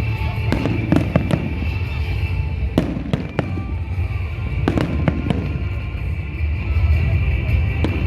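Fireworks display: about eight sharp bangs of bursting shells at irregular intervals over a continuous low rumble, with music playing throughout.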